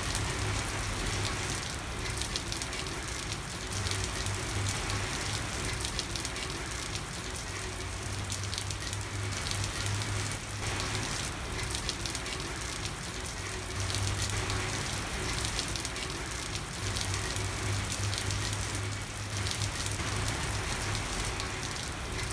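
Steady rain falling on a street, an even wash of noise dotted with many small drop ticks. A low rumble swells and fades several times underneath.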